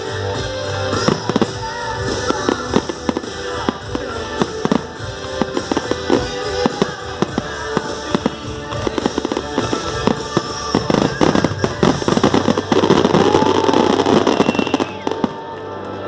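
Fireworks going off in a rapid string of bangs and crackles over music, with a dense burst of crackling about twelve seconds in that is the loudest part.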